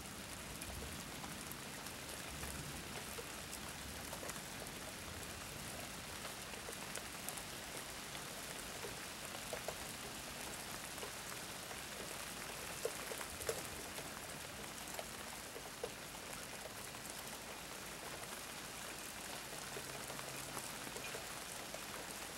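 Steady thunderstorm rain falling, with scattered individual drops ticking.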